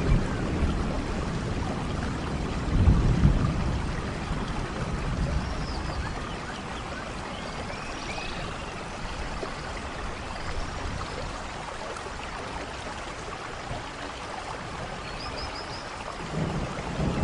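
Steady rain, with a deep rumble of thunder about three seconds in and another building near the end. A few short high chirps sound over the rain.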